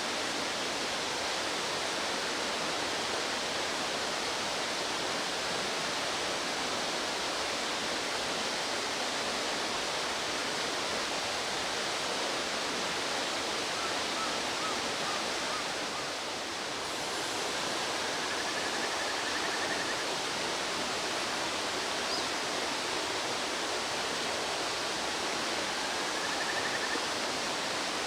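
Fast-flowing mountain stream water rushing, a steady even hiss.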